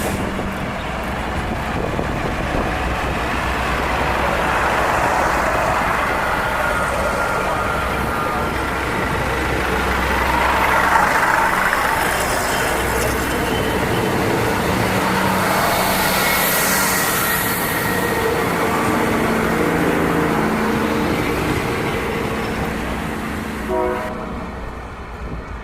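A departing express train's carriages rolling steadily past on the rails, with thin high whining tones from the wheels in the middle. A brief tone with several pitches sounds near the end.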